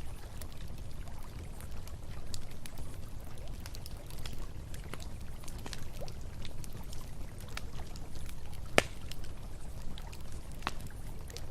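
Campfire crackling, with scattered sharp pops and one loud pop about three quarters of the way through, over the steady rush of flowing river water.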